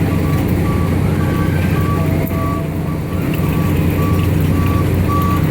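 Carnival train ride's engine running steadily with a low hum, while a high electronic beep repeats just under twice a second.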